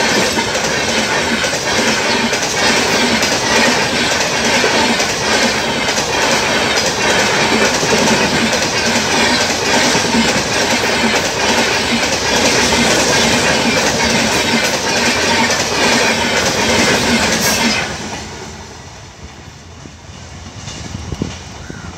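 Express train passenger coaches rushing past close by: a loud, steady rumble with a rhythmic clickety-clack of wheels over the rail joints. About 18 seconds in it cuts off abruptly to a much quieter background.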